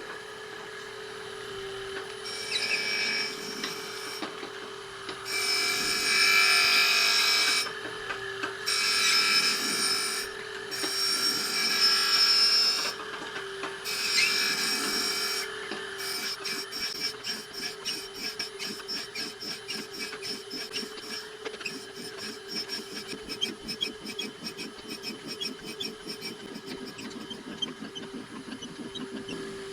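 Surface grinder's abrasive wheel grinding a cast iron table, a steady hum under about five loud grinding passes in the first half, then a lighter rapid crackle as the wheel cuts less. The wheel is not one made for cast iron.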